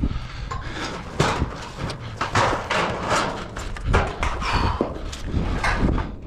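Irregular knocks, clatters and scrapes on sheet-metal roofing panels as they are handled and worked on.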